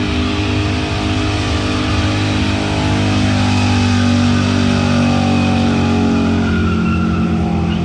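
Car engine held at high, fairly steady revs during a burnout, with the rear tyres spinning against the pavement.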